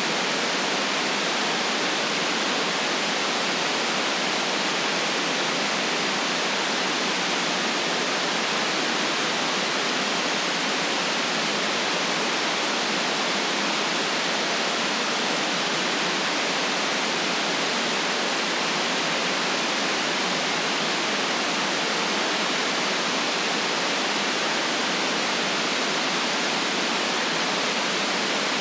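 Steady synthetic white noise: an even, unchanging hiss with no events in it.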